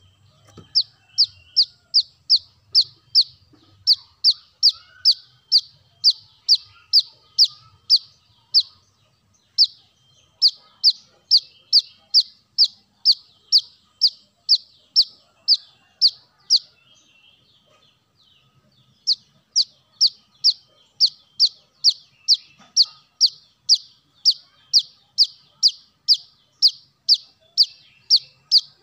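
Brown-throated sunbird (kolibri kelapa) calling: a fast run of sharp, high, slightly falling notes, about three a second. The run breaks off briefly once and pauses for about two seconds past the middle.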